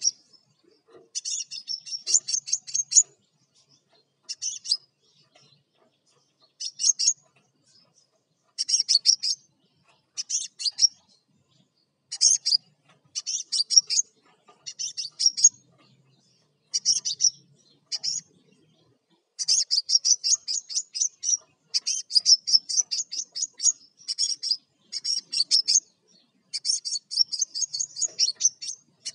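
Crimson sunbird (sepah raja) singing hard: bursts of rapid, high-pitched ticking and chattering notes, each a second or two long with short pauses between. After about twenty seconds they run together into longer strings.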